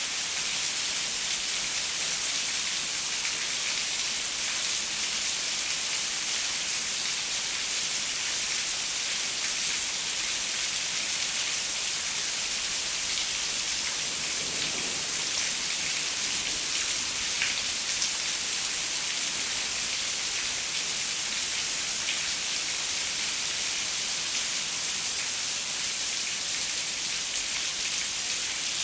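Steady rain pattering on a window, an even hiss with scattered drop ticks.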